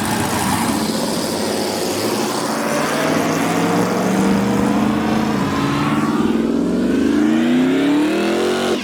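A car engine revving hard under load, its pitch climbing steadily over the last few seconds over a loud rushing noise, then cut off suddenly.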